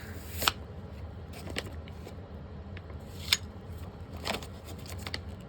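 A few sharp clicks and knocks of small hard objects being handled, the loudest about half a second and three seconds in, over a steady low hum.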